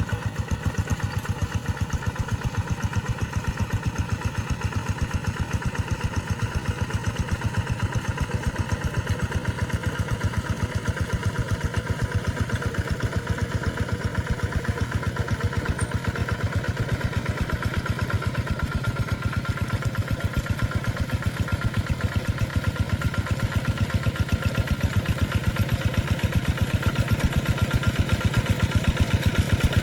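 Rice-field tractor engine running steadily with a fast, even beat of firing pulses, growing slightly louder near the end.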